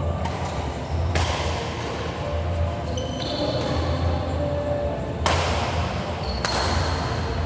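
Four sharp racket-on-shuttlecock hits in two quick pairs, each ringing on in the reverberant sports hall, over a steady low hum.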